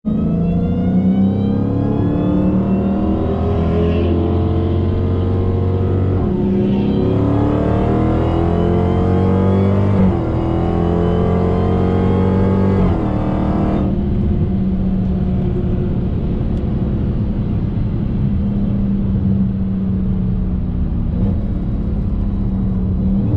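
Dodge SRT's V8 engine at full throttle, heard from inside the cabin, its pitch climbing through the gears with upshifts about six and ten seconds in. Shortly before the fourteen-second mark the throttle comes off and the engine settles to a steadier, lower note as the car slows.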